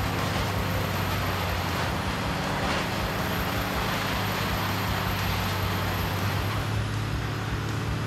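Heavy diesel-powered wood grinder running steadily: a low engine drone under a continuous noisy wash of machinery.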